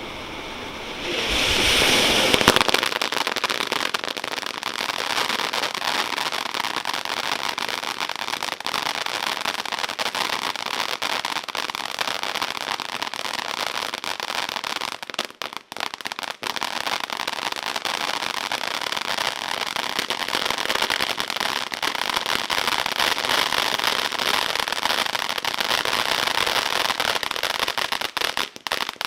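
Consumer firework fountain (Miracle Fireworks 'Waffle Cone') catching about a second in, then spraying with a steady hiss and dense crackle. It falters briefly about halfway through.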